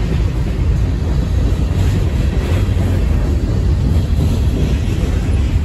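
Freight train cars rolling past close by: a steady, loud low rumble of steel wheels on the rails.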